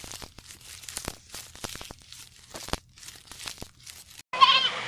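Irregular crackling and rustling: a quick, uneven run of small sharp clicks. About four seconds in it gives way to a louder, wavering animal call.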